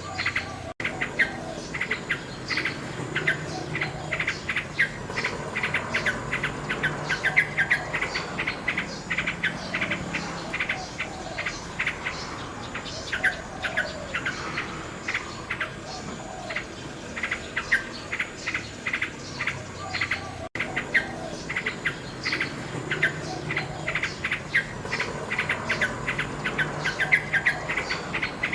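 Nightingale singing in rapid runs of repeated notes over a steady high chirring of insects. The sound cuts out for an instant twice, about a second in and about twenty seconds in.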